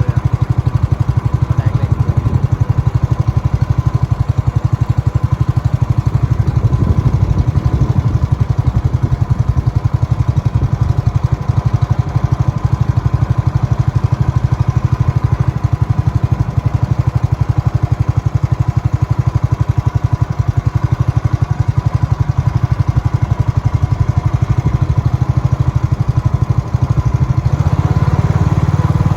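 A small engine running steadily at an even speed, with a rapid low pulsing and a faint steady whine above it.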